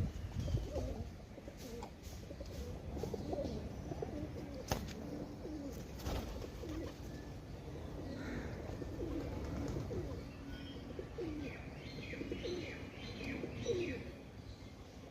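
Pigeons cooing over and over in low, wavering calls, with a run of higher chirps about three-quarters of the way through and a couple of sharp clicks.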